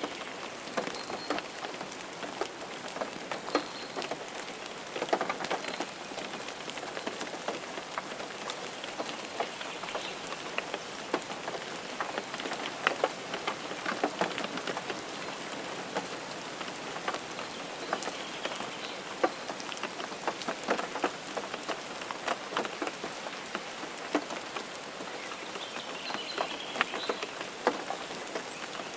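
Rain mixed with snow pattering on a car's windshield and roof: a steady hiss with many irregular drop ticks.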